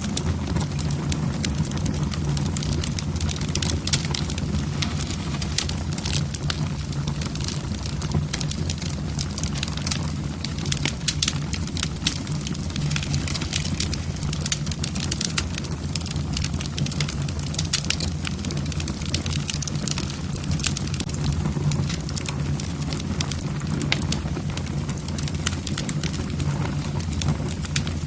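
Wood fire burning in a fireplace: logs crackling with many small, irregular pops over a steady low rush of the flames.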